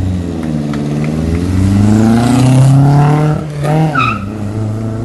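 Lancia Fulvia Rally S prototype's V4 engine accelerating hard from the start. The revs climb, drop sharply at a gear change about three and a half seconds in, then pick up again.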